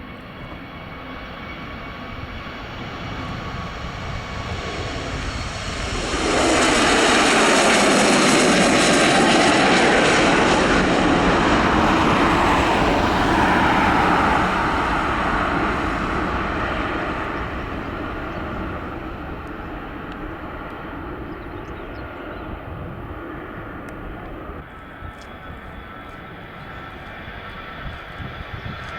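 A jet airliner passing close by: its engine noise swells, becomes loud suddenly about six seconds in, holds for about eight seconds, then drops in pitch and fades away as it moves off.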